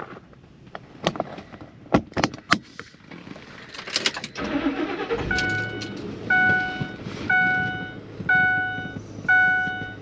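Clicks and knocks of keys and handling inside a car, then the car's engine cranks and starts about four seconds in and settles into a steady idle. Right after the start, a warning chime sounds about once a second.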